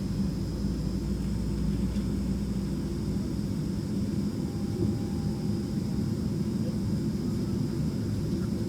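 Steady drone of a Boeing 767 heard from inside the passenger cabin, with a low hum and a faint high whine; a deep rumble underneath eases off about three seconds in.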